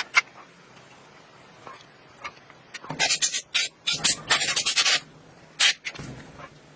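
Quick abrasive rubbing strokes on a hard surface, such as sanding or scrubbing off rust: a single stroke near the start, a fast run of about five strokes a second from about three seconds in lasting two seconds, then one more stroke.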